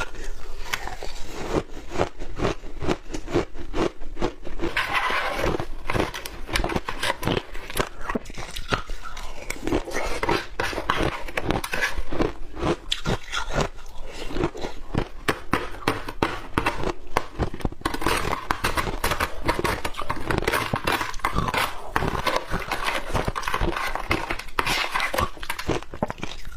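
Close-miked chewing and crunching of crushed shaved ice, a dense run of crisp crackles and crunches with small pauses between bites.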